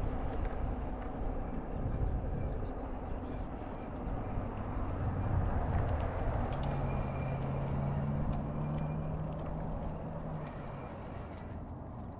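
Motor-vehicle sound with a low, steady rumble. A steady engine hum rises out of it for about four seconds past the middle, then fades.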